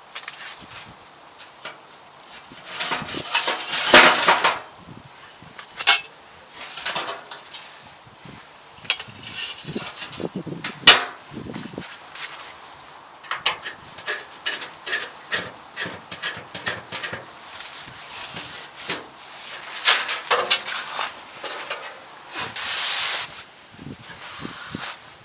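Irregular clattering and knocking of hard objects being handled. There are loud sharp knocks about four seconds and eleven seconds in.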